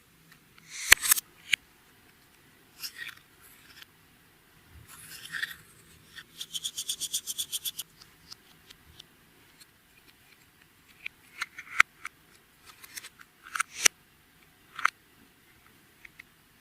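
Clear slime being squished and worked by hand: scattered sticky clicks and pops, with a quick run of about ten crackling pops a second around six to eight seconds in.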